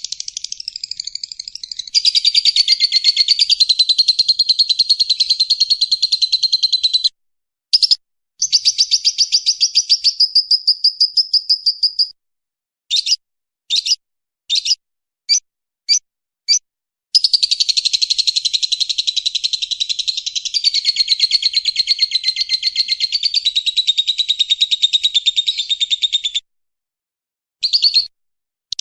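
Lovebird giving its long 'ngekek': rapid, high chattering trills in runs several seconds long, the longest about nine seconds in the second half. A string of short separate chirps comes midway. This long, unbroken ngekek is the song prized in lovebird training and contests.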